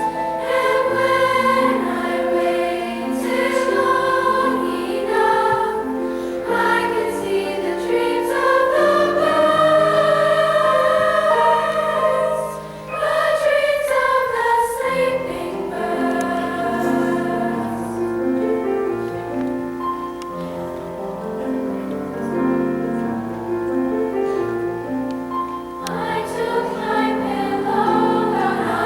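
Junior high girls' choir singing in held, blended treble voices, with a brief break in the sound about twelve seconds in.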